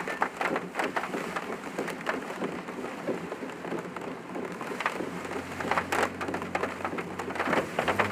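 Heavy rain drumming on a car's roof and windscreen, heard from inside the cabin as a dense patter of irregular drop hits. A faint low steady hum joins about five seconds in.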